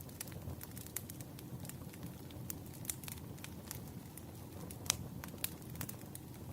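Burning firewood crackling, with irregular sharp pops over a steady low rumble; one louder pop about five seconds in.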